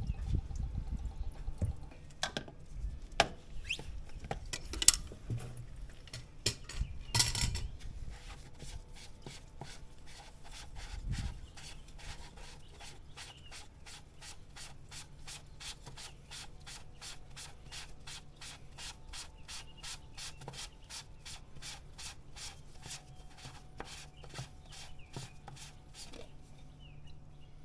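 A few knocks and scraping rubs of hand work, then a steady, even run of sharp clicks, about three a second, that stops near the end.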